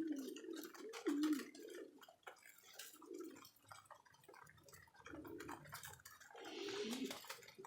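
Domestic pigeons cooing, several low rolling coos a second or two apart, with scattered light clicks between them.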